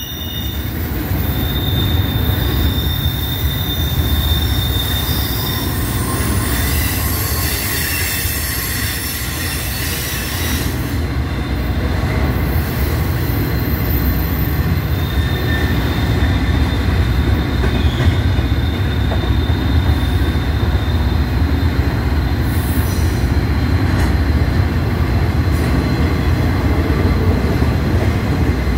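Double-stack intermodal container train rolling past: a steady low rumble of wheels on rail, with a thin high wheel squeal that comes and goes, once near the start and again in the middle.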